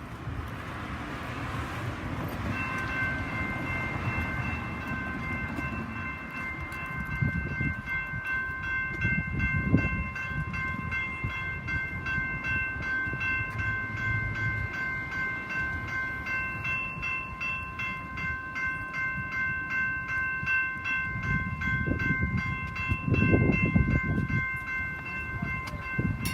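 Level-crossing electronic bells (GS Type 2 E bells) start about two and a half seconds in and ring on in a rapid, even ring, signalling that the crossing is activated. Underneath there is a low rumble of passing traffic that swells twice.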